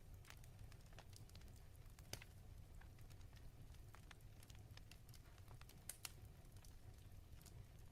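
Faint fireplace crackling: irregular sharp pops and snaps, two louder ones about two and six seconds in, over a low steady rumble.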